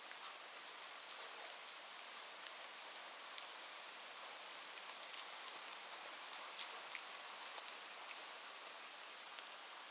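Steady rain: an even hiss with scattered sharp ticks of individual drops hitting a surface.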